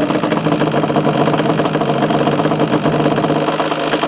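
Yamaha Banshee 350's twin-cylinder two-stroke engine idling steadily, carrying the noise of its worn kickstart mechanism, which is missing its detent spring and ball bearing.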